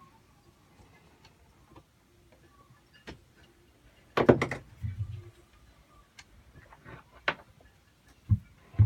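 Scattered knocks, clicks and low thuds of someone moving about inside a small yacht's cabin. A louder cluster of knocks comes about four seconds in, and two low thuds come near the end.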